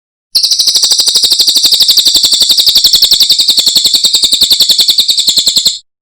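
Cililin songbird singing one long, rapid, high-pitched trill of about twelve notes a second, lasting some five seconds, starting and stopping abruptly.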